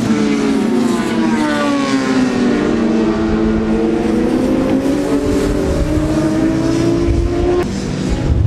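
Racing sport-motorcycle engine at high revs, its pitch dropping for the first couple of seconds and then climbing steadily as the bike drives through a corner. It cuts off near the end, leaving wind rumbling on the microphone.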